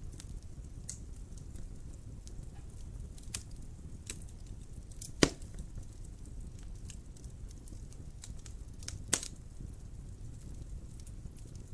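Wood fire crackling in a fireplace: a low steady rumble of flames with scattered sharp snaps, and two louder pops about five and nine seconds in.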